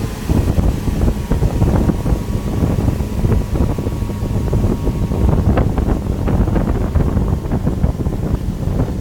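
Wind buffeting the microphone on a moving motorboat towing a wakeboarder, with the boat's engine running steadily underneath.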